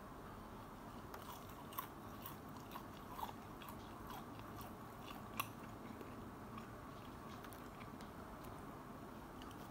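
A person chewing a crunchy bite of breaded fried fish: scattered faint crunches, most of them in the first six seconds, with one sharper crack about five seconds in, over a steady hiss.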